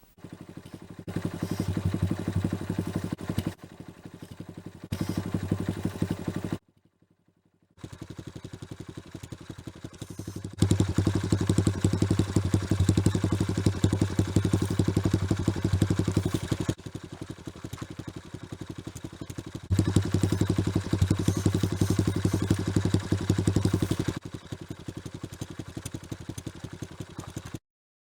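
Small single-cylinder Honda Magna 88 motorcycle engine running through a Dodosuko Harley-sound system and variable-volume muffler, giving a rapid thudding exhaust beat. It steps between louder and quieter stretches several times, with a short break to silence about seven seconds in.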